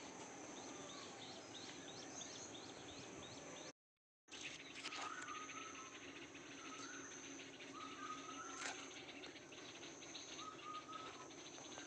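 Small birds chirping and singing over a steady high-pitched drone. Quick chirps fill the first few seconds, the sound cuts out completely for half a second about four seconds in, and then a bird repeats a short whistled phrase four times.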